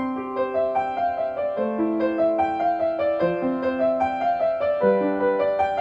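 Gentle background piano music: a slow melody of sustained notes over steady chords.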